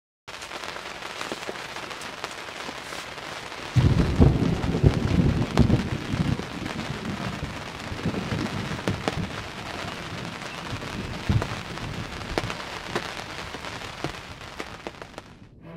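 Steady rain with many small drop ticks, and a low rumble of thunder that comes in suddenly about four seconds in and dies away over the next few seconds.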